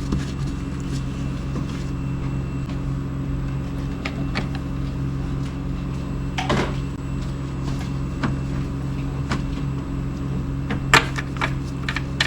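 A steady low hum with a few short clicks and knocks of handling at an engine's oil filler: the oil can and funnel being moved as the oil fill is finished, the sharpest knock near the end.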